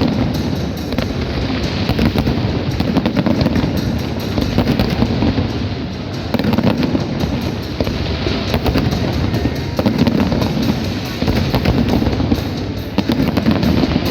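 Fireworks display in full barrage: a dense run of crackling pops and bangs over a steady rumble, with no let-up.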